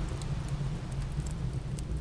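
Wood fire crackling, with scattered sharp pops and snaps over a steady low rumble and soft hiss.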